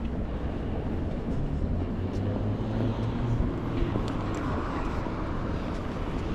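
Low steady rumble of a passing vehicle, with a hum that rises about a second in and fades after the middle.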